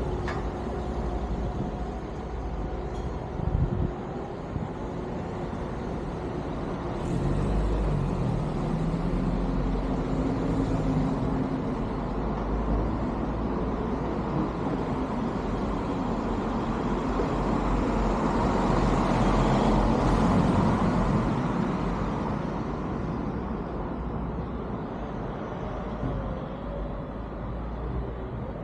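BMW R1200GS motorcycle on the move: engine and road and wind noise, swelling for a few seconds about two-thirds of the way through.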